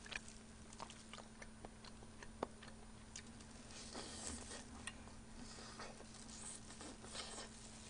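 Faint chewing and soft mouth clicks as a piece of braised chicken is bitten and eaten, with a sharper click about two and a half seconds in. A faint steady hum sits underneath.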